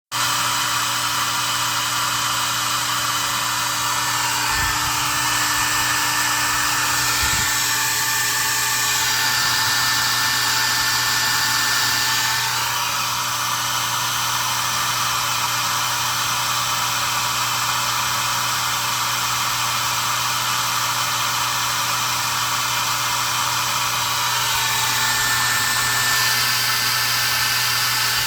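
Hair dryer blowing steadily, used to melt the ice while defrosting a refrigerator; its sound shifts a few times along the way.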